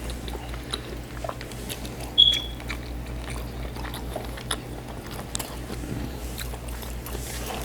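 Close-miked chewing and biting of crab meat, with scattered small clicks and a brief high squeak about two seconds in.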